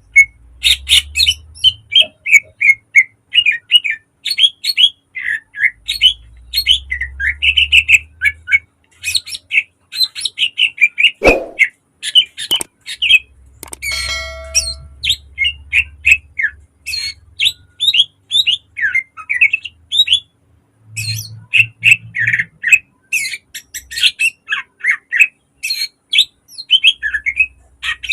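Cucak ijo (green leafbird) singing hard in a fast, nearly unbroken run of sharp chirps, short whistles and gliding notes. A low hum comes and goes underneath.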